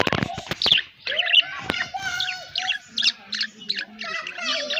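Pet budgerigars chattering and warbling: a rapid run of short high chirps and squeaky trills, with a few sharp clicks in the first second.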